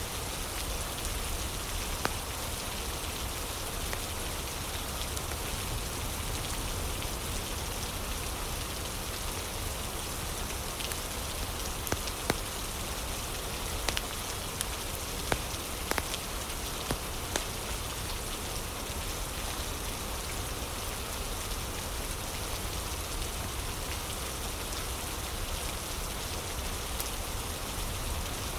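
Steady rain falling, a constant hiss, with a scattered few sharp pops and crackles from a wood fire, most of them in a cluster around the middle.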